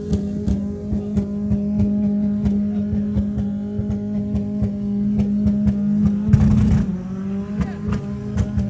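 Off-road vehicle's engine held at steady high revs, with many sharp knocks and rattles. About six seconds in there is a brief rush of noise, and the engine pitch then dips a little.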